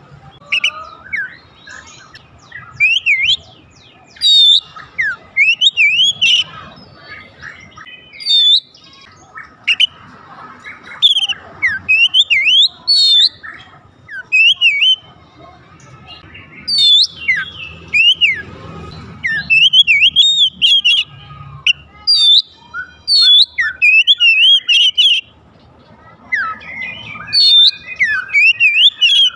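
Oriental magpie-robin (kacer) singing a long run of loud, varied whistled phrases, notes sliding up and down, delivered in bursts with short pauses between them.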